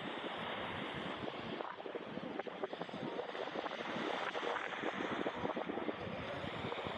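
Surf washing onto a beach, a steady rushing hiss full of small crackles, with wind on the microphone.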